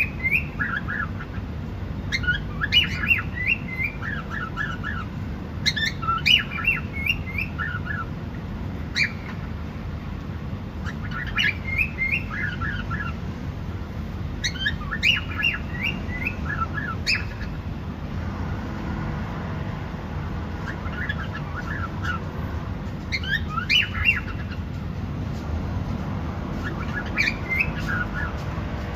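Cockatiel chirping in short phrases of quick gliding notes, a phrase every two to four seconds, over a steady low background rumble.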